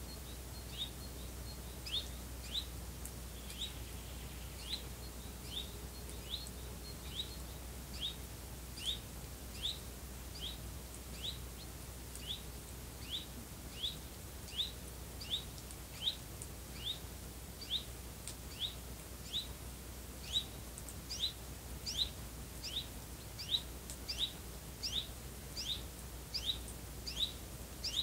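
A bird repeating one short, high, downward-sliding chirp over and over, about one and a half to two a second and a little faster near the end, over a steady low rumble.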